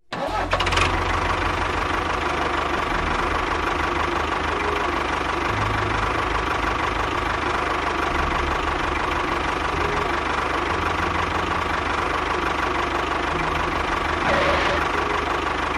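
A motor running steadily with a low hum, starting abruptly just after the start and swelling briefly near the end.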